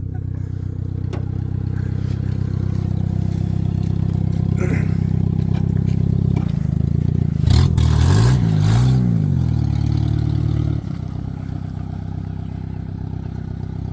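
Suzuki Escudo's engine running steadily, revved up and back down twice around the middle, then dropping to a lower, quieter idle about three-quarters of the way through.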